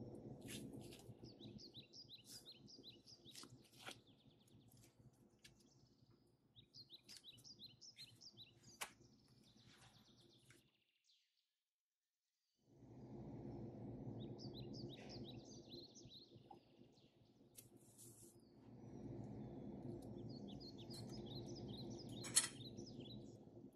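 Faint birds chirping in quick twittering runs over a low steady hum, with a few light taps, the sharpest near the end.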